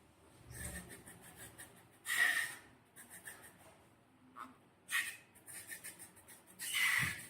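Slime being squeezed and squished by hand: a series of short, crackly squelches with airy hissing.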